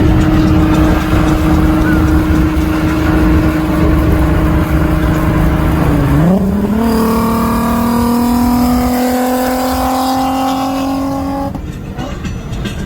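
Swapped-in Volkswagen R36 3.6-litre VR6 engine under hard acceleration. It is held at steady high revs for about six seconds, drops briefly at an upshift, then climbs steadily for about five seconds before the throttle is lifted near the end.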